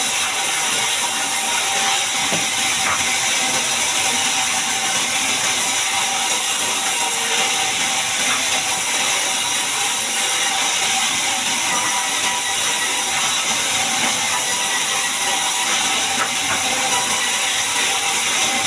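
Band sawmill running with a steady hiss and a thin, steady whine, its blade sawing through mahogany.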